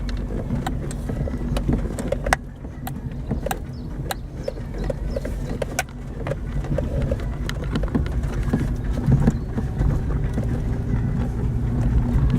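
Daihatsu Terios running in low gear over rough off-road ground. The engine hum is steady and grows a little louder in the second half, with frequent sharp knocks and rattles from the vehicle jolting over the terrain.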